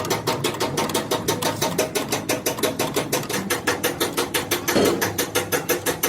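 Rapid, evenly spaced knocking, about six or seven strikes a second, keeping a steady pace.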